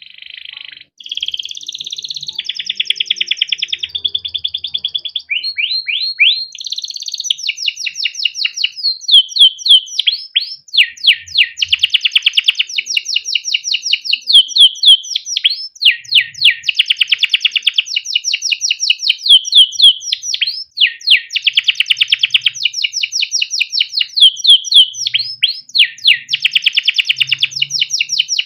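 Domestic canary singing a long continuous song, with fast repeated chirps and rolling trills ("cuit cuit ngerol"). The song starts right at the beginning after silence and runs unbroken, with loud bursts of quick sweeping notes.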